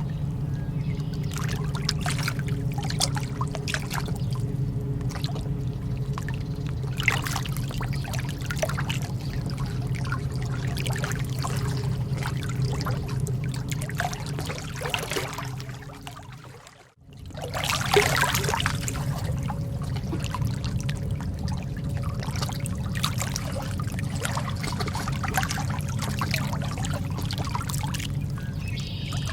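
Calm lake water trickling and splashing in small, quick drips over a steady low rumble. About halfway through the sound fades away almost to nothing for a moment, then comes back.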